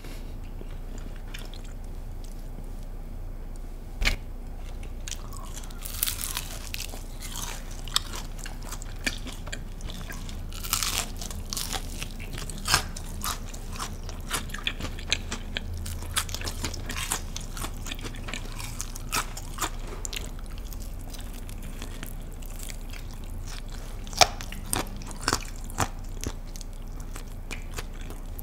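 Close-miked biting and chewing of crispy Kyochon Honey Combo fried chicken, with sharp crunches scattered throughout and the loudest crunch about two-thirds of the way through.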